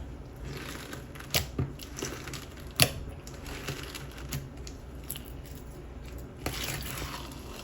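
Hands working a melted jelly slime packed with lava rocks: sticky squishing and crackling, with a few sharp pops about one and a half and three seconds in.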